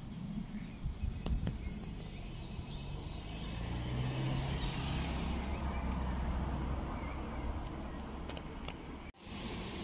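Outdoor ambience by a pond: a steady low rumble, with a songbird repeating a short, high, descending note about two or three times a second for a few seconds in the middle. The sound cuts out briefly near the end.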